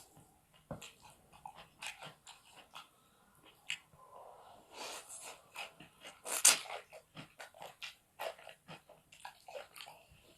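Close-miked eating sounds: wet chewing and mouth smacks on fried rice stick noodles, in irregular short clicks, with one louder burst about six and a half seconds in.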